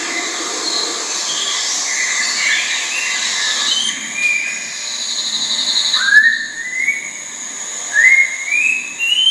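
Orange-bellied leafbird singing: a varied run of whistled notes, then a quick trill, and near the end short phrases that climb in steps.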